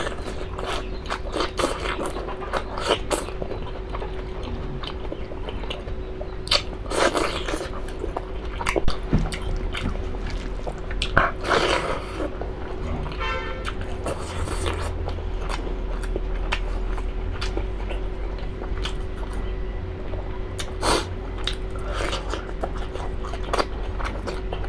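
A person chewing and biting into beef innards, with many small wet mouth clicks and a few louder bites.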